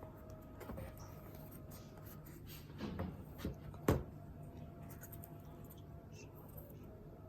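Hands handling product packaging: a few soft rustles and taps, with one sharp click about four seconds in, over a steady low hum.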